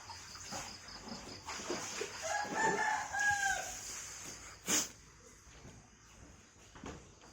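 A rooster crowing once, about two seconds in, a pitched call lasting about a second that falls at the end. A single sharp click follows near the end.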